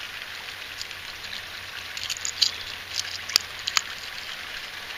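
Steady rain hissing and pattering, with a cluster of sharp clicks and taps about two to four seconds in.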